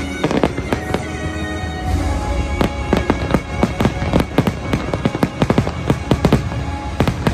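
Fireworks shells bursting in a rapid volley, with a few bangs early on and then several a second from about two and a half seconds in, over the show's music.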